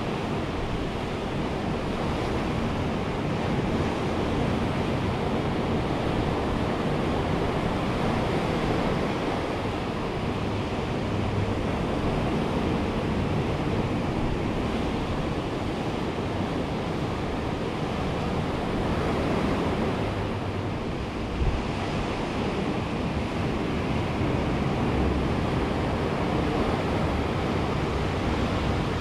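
Ocean surf washing steadily onto a beach, with some wind buffeting the microphone.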